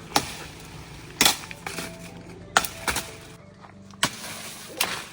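A large chopping knife hacking through fallen walnut tree branches: about six sharp, unevenly spaced chops, over background music.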